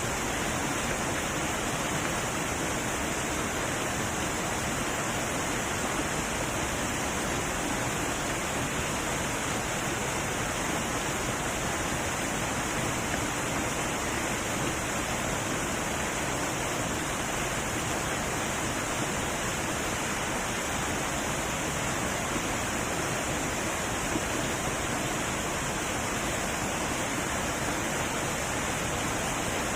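Heavy waterfall rushing: a steady, unbroken roar of falling water.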